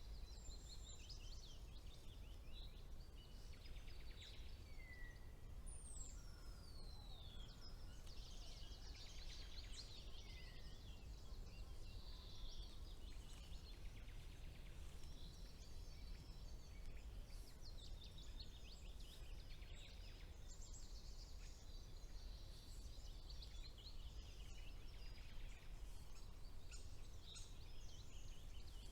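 Several songbirds singing at once, a faint chorus of overlapping quick trills, chirps and falling whistles, over a steady low rumble.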